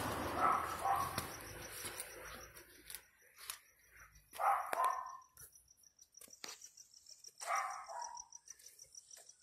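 A dog barking in three short bouts a few seconds apart, over a faint steady high chirping like crickets.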